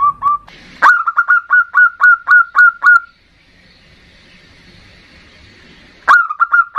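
Zebra dove (perkutut) cooing: a rapid series of short, clipped coos, about four a second, breaking off for about three seconds of faint hiss before a few more coos near the end.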